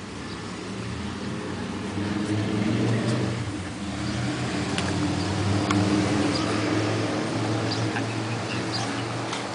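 A motor vehicle engine running at a steady low pitch, growing louder for several seconds and then easing off, with faint high ticks or chirps over it.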